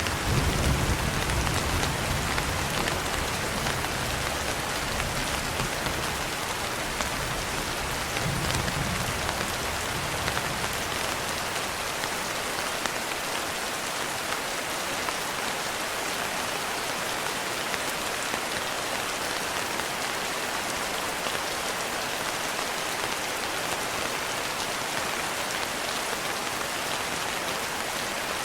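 Steady rain falling, an even hiss of drops, while a low thunder rumble dies away over the first ten seconds or so.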